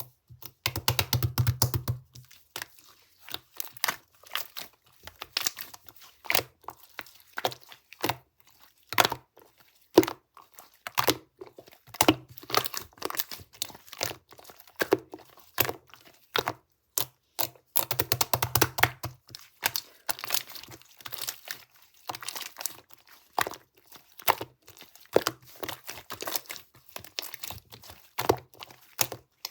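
Slime being squeezed, folded and poked by hand, giving many small sharp clicks and crackling pops from trapped air. Denser runs of crackling come about a second in and again around eighteen seconds.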